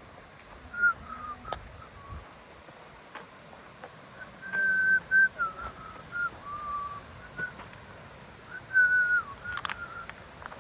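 A person whistling a simple tune: clear single notes held and sliding up and down, in short phrases with pauses between. There are two sharp clicks, one early and one near the end.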